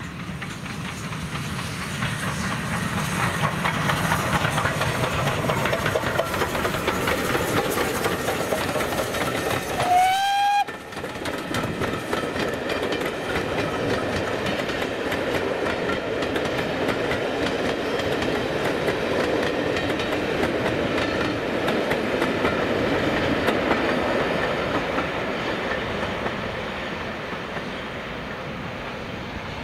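A train running past on the rails, its wheels clattering over the rail joints, louder for most of the stretch and easing off slightly near the end. About ten seconds in, a short, slightly rising whistle sounds once, and the sound then breaks off briefly.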